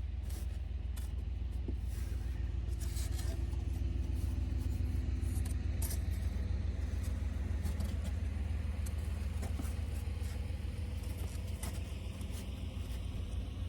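A steady low hum, like a running engine or motor, with scattered light clicks and taps over it.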